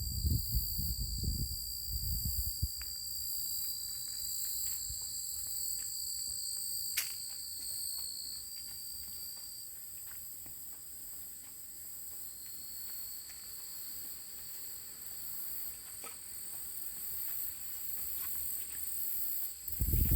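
Insects trilling in two steady, high-pitched tones without a break. Wind buffets the microphone in the first couple of seconds, and there is one sharp click about seven seconds in.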